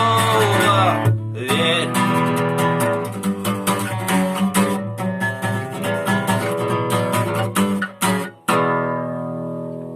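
Acoustic guitar strumming the closing bars of a song, with a short break about a second in. A final chord is struck about eight and a half seconds in and left to ring out, fading away.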